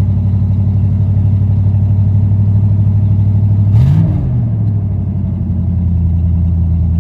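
1977 GMC Sprint's 350 V8 running at idle while warming up after a cold start, with one short blip of the throttle about four seconds in before it settles back to a steady idle.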